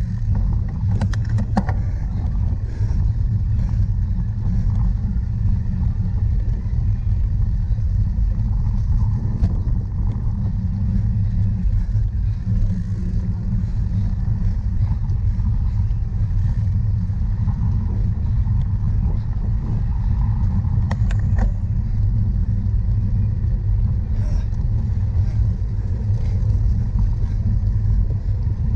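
Wind rumbling steadily on the microphone of a camera carried on a cyclocross bike while riding, with a few sharp clicks and rattles from the bike.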